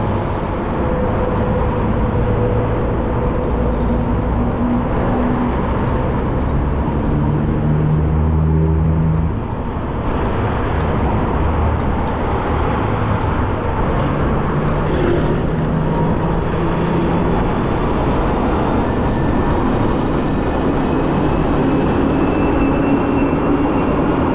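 Steady road-traffic noise heard from a moving bicycle, with the engines of nearby vehicles rising and falling in pitch. About two-thirds of the way through come two short high-pitched beeps.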